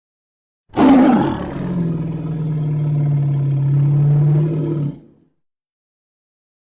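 Gorilla roar sound effect: one long roar of about four seconds that opens with a harsh burst and settles into a steady, low held tone before cutting off.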